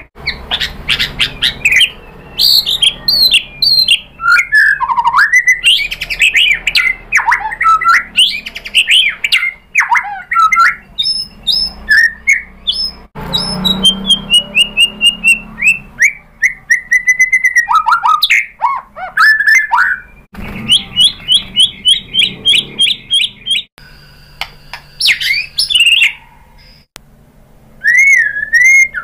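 White-rumped shama (murai batu) singing a loud, varied song: rich whistled phrases that glide up and down, mixed with fast chattering notes and rapid trills, in quick succession with short pauses between phrases.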